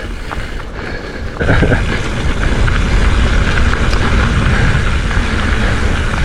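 Wind rushing over a helmet or chest-mounted action camera microphone and the rumble of a mountain bike rolling over dirt singletrack, growing louder about a second and a half in.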